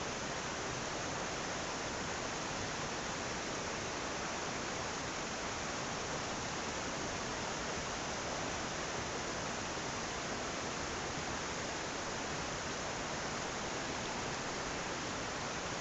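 Running water rushing steadily, a constant even hiss without surges or pauses.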